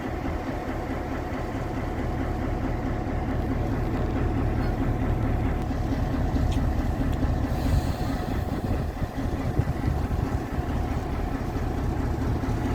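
A train running with a steady low rumble and an engine hum.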